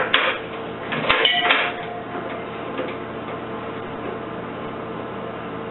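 Two short bursts of metal clattering and clicking within the first two seconds, over a steady hum.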